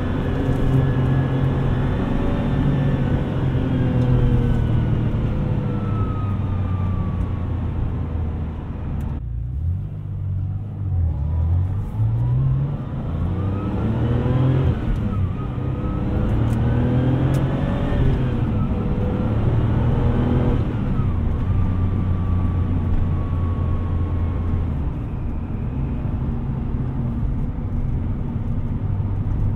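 Porsche 993 Twin Turbo's air-cooled twin-turbocharged flat-six under way. Its note falls slowly at first, then climbs and drops back several times as the car accelerates through gear changes, with a brief lull about nine seconds in.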